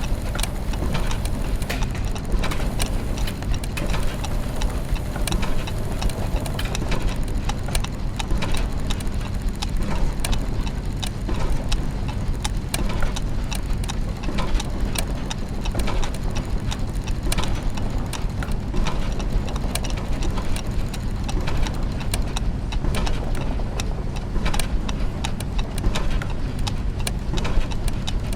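Layered clockwork gears and mechanisms: dense, irregular ticking and clicking over a steady low mechanical hum.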